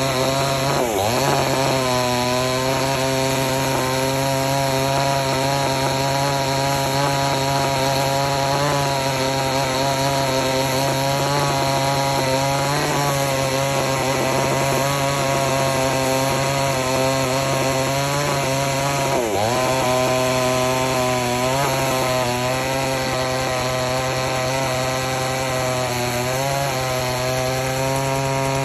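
Chainsaw running steadily while cutting through wood. Its pitch dips sharply twice, about a second in and again around 19 seconds, as the chain bogs under load and recovers.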